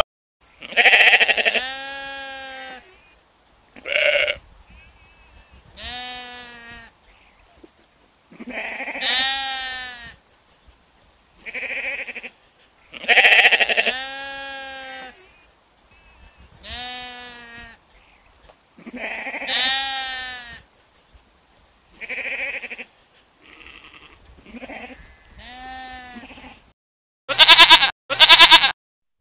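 Sheep bleating: a string of about a dozen bleats with a wavering pitch, one every two seconds or so with short silences between them. Near the end come two louder, shorter bleats.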